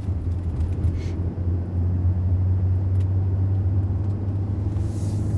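Steady low drone of a 2020 Mercedes-Benz GLS 400d driving along, heard from inside the cabin: the hum of its six-cylinder diesel mixed with road noise.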